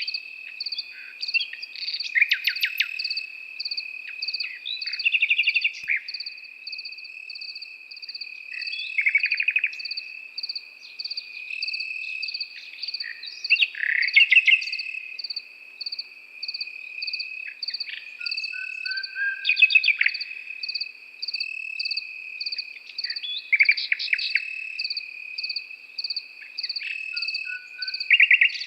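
Nightingale singing short phrases of rapid repeated notes every few seconds, over crickets: one trilling steadily, another chirping in even pulses.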